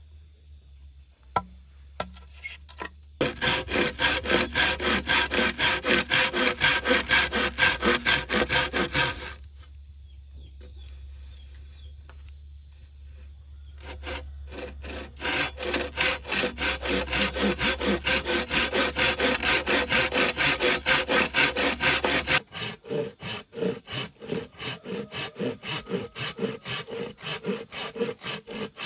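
Hand saw cutting through wood in steady back-and-forth strokes, about two to three a second, in two long runs with a pause between. A couple of sharp knocks come before the first run, and near the end the strokes turn quieter and duller.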